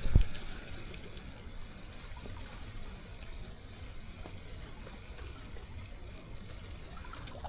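River water running steadily, opening with a dull low thump.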